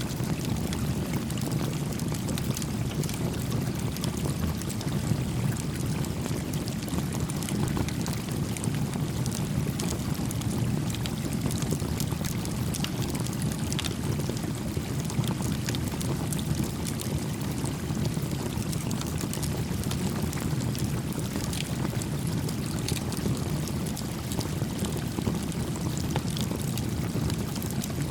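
A stream flowing with a steady low rush of water, over which a small campfire crackles in sparse faint pops.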